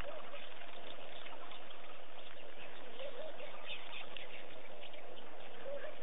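Steady outdoor hiss with about three short bird calls, each a brief rise and fall in pitch, at the start, about halfway and near the end.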